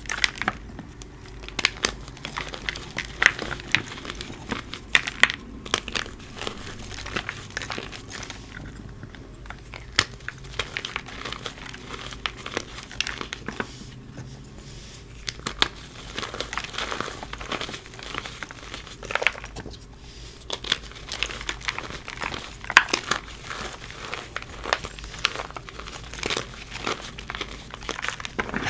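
A block of reformed gym chalk being crushed and crumbled, giving dense, irregular crunching and crackling in bursts with a few brief pauses.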